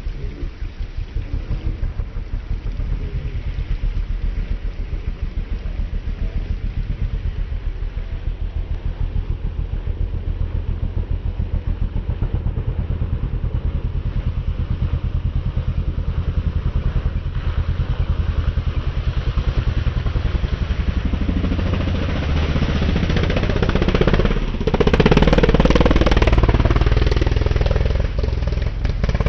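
Motorcycle engine running with a fast, steady low throb that grows louder, then revs harder near the end after a brief dip.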